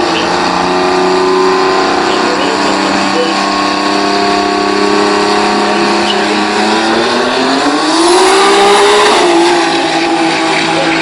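Twin-turbo 3-litre Toyota 2JZ inline-six of a drag-racing altered, running loud at a steady pitch, then rising in pitch about seven seconds in and settling at a higher steady note.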